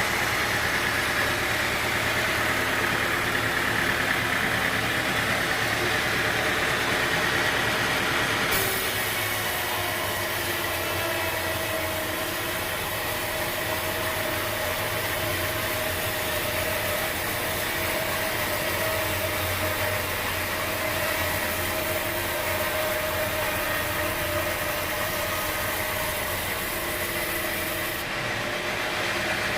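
Steady engine-driven machinery running, with several steady hum tones. The sound changes abruptly about eight seconds in and again near the end.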